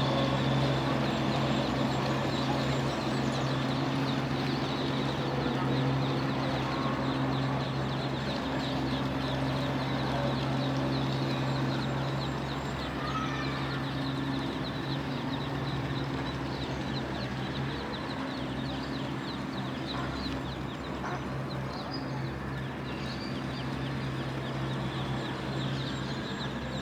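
A brood of ducklings peeping, a dense run of many short, high calls overlapping one another, over a steady low hum.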